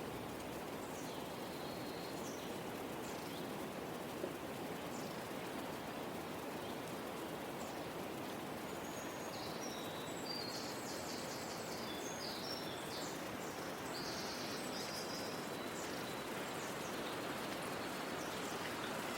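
Small birds chirping and trilling, busiest about halfway through, over a steady outdoor background hiss.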